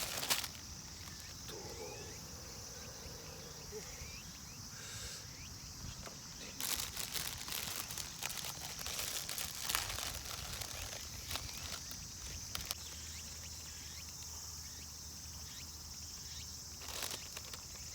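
Steady, high-pitched insect trilling from the surrounding grass, with a few short clicks and rustles of something being handled about 7 seconds in and again near the end.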